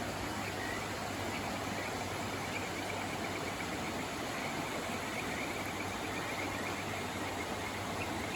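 Steady rushing of river water, with a faint rapid chirping running through it.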